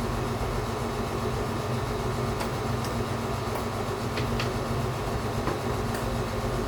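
Steady electrical hum and hiss with a few faint, scattered clicks, like small parts and cables being handled on a workbench.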